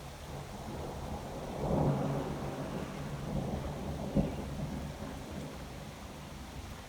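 Thunder rolling: a low rumble that swells about two seconds in, a sharp crack about four seconds in, then dies away.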